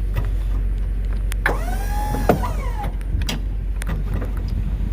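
Power liftgate on a box truck being raised by its electric motor: a steady low hum, a whine that rises and then falls in pitch about halfway through, and a few sharp metallic clicks.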